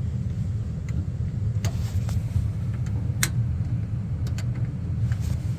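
Carrier gas furnace humming steadily and low after being powered up, with a few sharp clicks.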